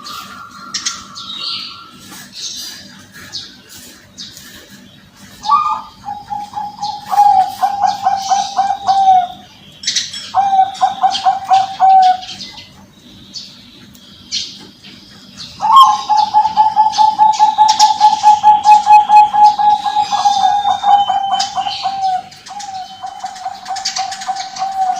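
Birds singing. One bird gives long, steady trilled notes of a few seconds each, starting about five seconds in; the longest runs about six seconds. Short high chirps from other birds go on throughout.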